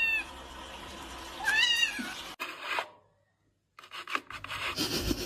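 A cat meowing: a long meow trails off at the start, and a short meow rising then falling comes about a second and a half in. After a brief silence, irregular rubbing and scraping sounds follow.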